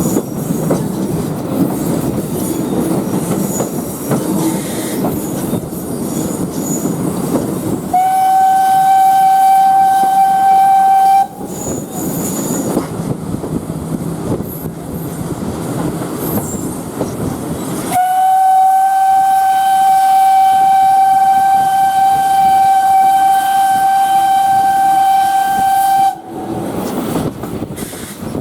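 Steam train rolling along with a steady rumble of wheels on track, while the Ty42 steam locomotive's whistle sounds twice: a short blast of about three seconds, then a long one of about eight seconds, each one a single steady note.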